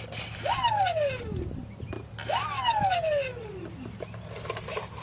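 Electric motor of an RC foam plane (Super Baby) blipped twice on the throttle: each time a brief high beep, then the pitch rises quickly as the propeller spins up and falls away over about a second as it coasts down.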